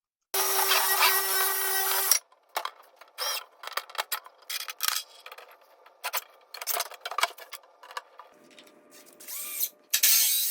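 Power drill running for about two seconds, driving fasteners into 2x4 lumber, followed by a string of short, irregular scrapes and knocks of wood being worked.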